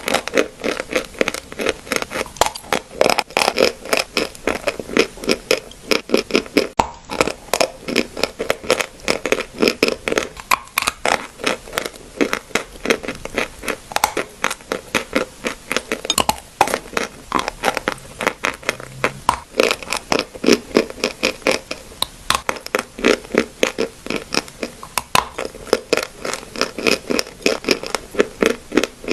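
Dry clay (mitti) crunching and crumbling in a dense, continuous run of sharp cracks, several a second.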